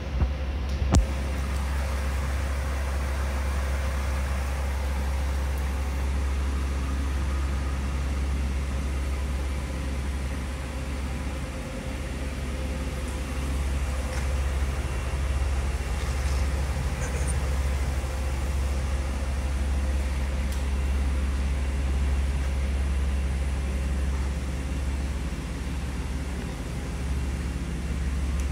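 2010 Cadillac DTS's Northstar 4.6 L V8 idling steadily, a low even hum, with a couple of light knocks about a second in.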